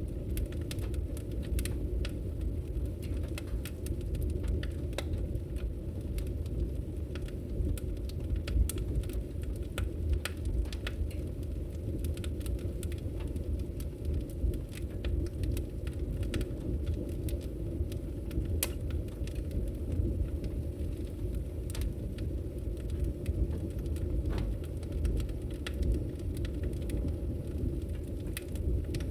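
Wood logs burning in a fireplace, crackling with irregular sharp pops and snaps over a steady low rumble.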